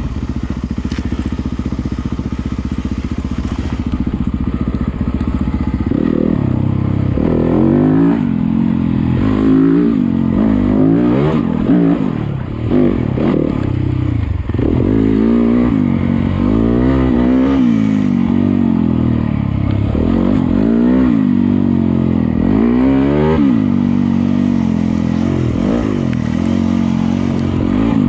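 Yamaha YZ250FX 250cc four-stroke single-cylinder dirt bike engine, running steadily at low revs for the first six seconds or so, then revving up and down again and again as the throttle is opened and closed on the trail.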